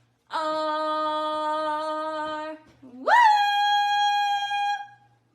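Parrot giving two long, howl-like held notes: the first steady for about two seconds, the second sliding sharply up and held higher and louder.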